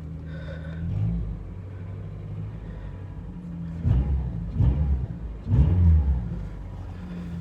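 Honda Accord engine with an aftermarket cold air intake idling steadily, blipped up in revs briefly three times around the middle; it still sounds stock.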